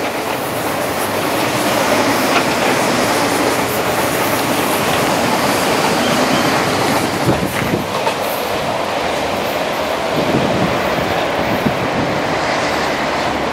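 MTR East Rail Line electric multiple-unit train running past close by, a loud steady rush of wheels on the rails with a few sharper knocks about halfway through.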